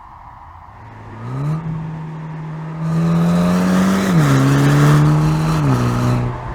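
MINI John Cooper Works Clubman's 306 hp turbocharged four-cylinder engine accelerating. Its note climbs about a second in and gets much louder, then drops in pitch twice as it shifts up, before settling back to a lower, steadier run near the end.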